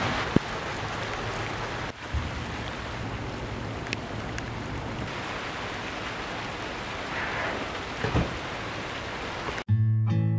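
Steady rain falling, with a sharp tap just after the start and a dull knock near the end. Acoustic guitar music comes in suddenly near the end.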